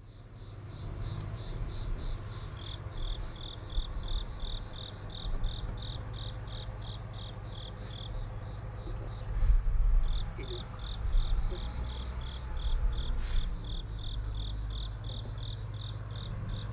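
Crickets chirping in an even rhythm, about three chirps a second, with a pause about eight seconds in. Under them runs the low steady rumble of a truck engine, louder around ten seconds.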